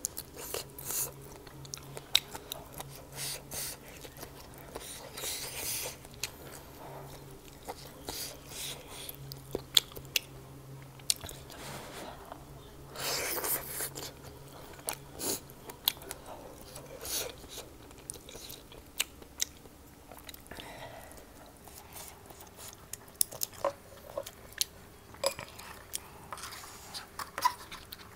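Close-miked eating sounds from a person chewing and biting food: wet smacks and many short sharp clicks, with some crunching, plus two longer noisy sounds about five and thirteen seconds in.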